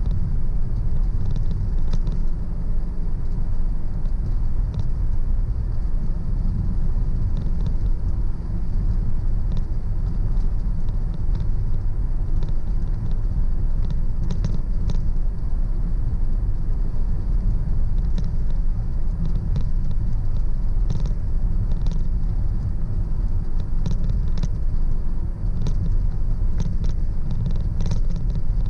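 Car driving at road speed, heard from inside the cabin: a steady low rumble of engine and tyres on the road, with faint light ticks and rattles now and then.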